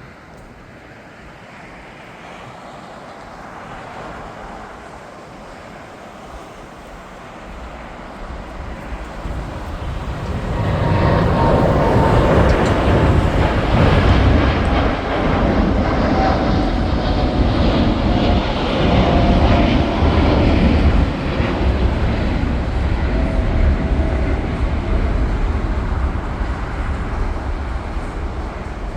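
Jet airliner passing close by. Its engine noise builds about a third of the way in, is loudest around the middle, then slowly fades, with a faint whine that drops slightly in pitch as it goes by.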